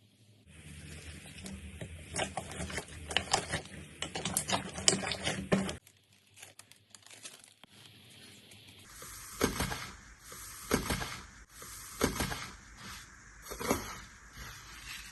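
Slime being worked by hand: a dense run of small crackling pops for about five seconds, then after a short quieter stretch a series of separate squeezes or presses, about one every second and a bit.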